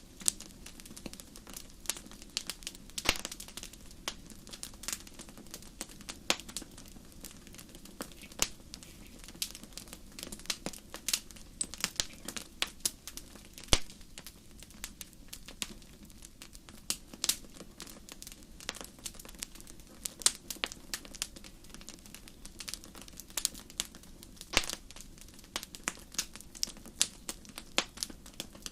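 Wood campfire crackling: irregular sharp snaps and pops, several a second and some much louder than others, over a low steady rush.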